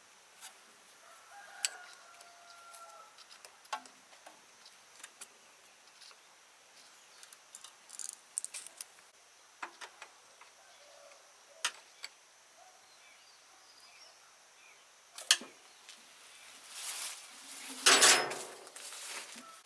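Scattered sharp clicks and taps over a faint steady high hiss, with a chicken calling faintly in the background in the first few seconds. Near the end there is a louder scraping, rushing noise lasting about a second and a half.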